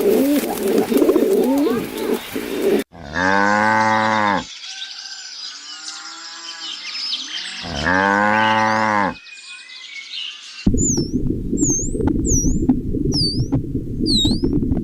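Cow mooing twice in two long, even calls about four seconds apart, with small birds chirping behind. Before it comes a stretch of low cooing like pigeons, and near the end the sound cuts to rapid, high, sharply swooping chirps or squeaks over a low rumbling noise.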